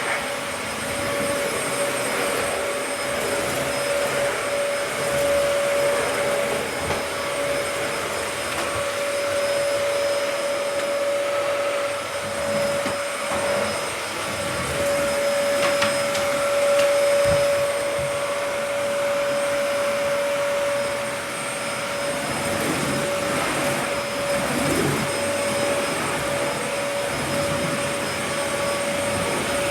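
Vacuum cleaner running steadily on a hard kitchen floor, its motor holding a steady whine, with small shifts in the noise as the head is pushed about.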